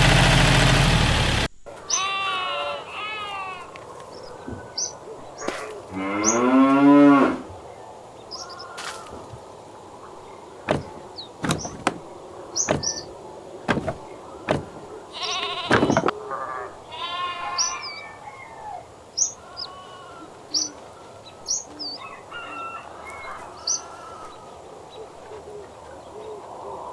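A small motor running, cut off abruptly about a second and a half in, followed by farmyard sounds: cattle mooing several times, the two loudest calls early on, with birds chirping and scattered sharp clicks.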